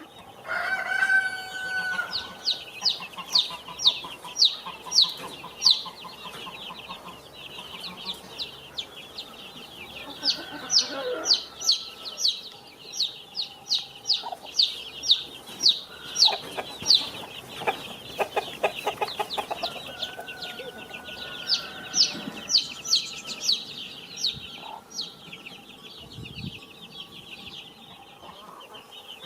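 Chicks peeping in quick runs of short, high cheeps that slide downward in pitch, with a few lower clucks underneath.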